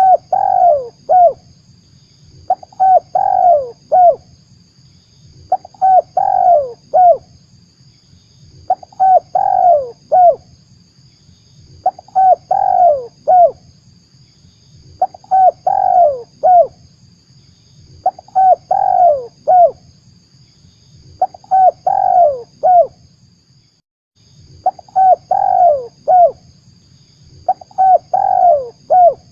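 Spotted dove (tekukur) cooing: the same short phrase of three or four falling notes repeated about every three seconds, a call played as a lure to draw wild doves. A faint steady hum sits under the calls.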